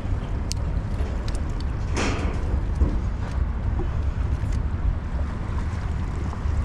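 Steady low rumble of wind buffeting the microphone, with a brief rushing burst about two seconds in and a few faint clicks.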